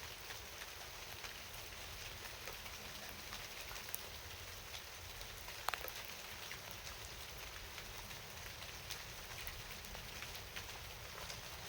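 Steady rain falling at night, with scattered individual drops ticking on a surface and one sharper drop about halfway through.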